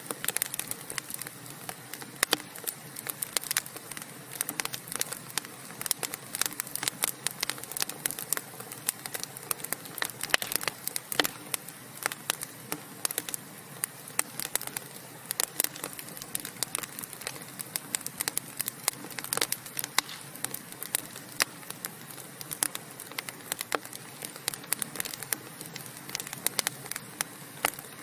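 Burning wood crackling, with dense, irregular sharp pops and snaps over a steady soft hiss.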